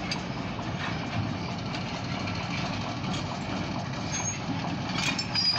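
Diesel locomotive of a short freight train running as it rolls slowly past, a steady low rumble, with a couple of faint brief high squeaks near the end.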